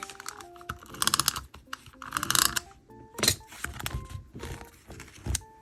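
Two short bursts of rapid, ratchet-like clicking from a small mechanism, about a second in and again a second later, with a few single clicks after, over soft background music.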